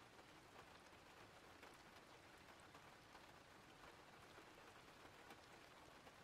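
Faint steady rain, an even hiss with scattered soft drop ticks.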